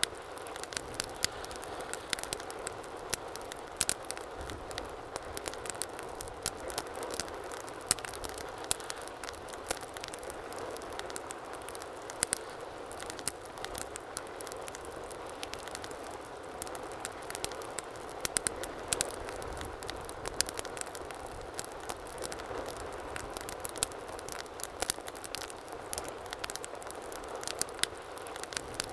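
Wood fire burning in a fireplace, with a steady low rush of flames and frequent sharp, irregular crackles and pops.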